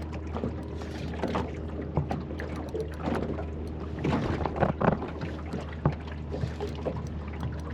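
Small boat on the water with a steady low hum underneath and scattered light knocks and splashy sounds, busiest in the middle, as a fish is played on rod and reel.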